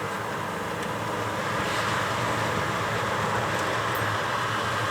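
Car driving, heard from inside the cabin: a steady rush of road and engine noise that grows a little louder about a second and a half in.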